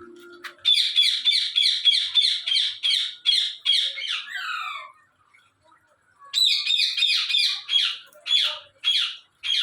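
Parrot calling, a fast series of sharp repeated calls, about three to four a second, ending in a few calls that slide downward in pitch. After a short pause, a second series starts and slows toward the end.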